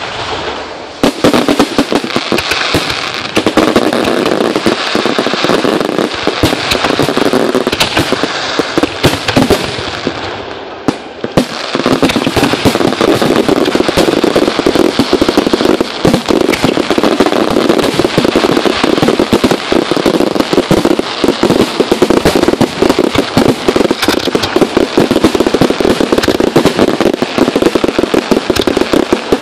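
Fireworks going off in a dense, continuous rattle of cracks and pops; it eases briefly about ten seconds in, then picks up again, thicker, and keeps going.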